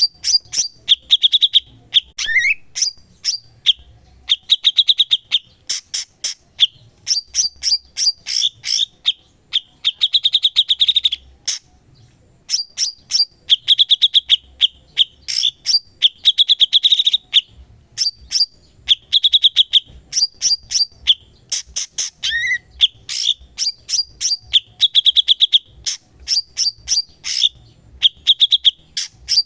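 Cucak cungkok in full song: a continuous string of rapid, repeated chattering trills with sharp high notes, broken twice by a short rising whistle.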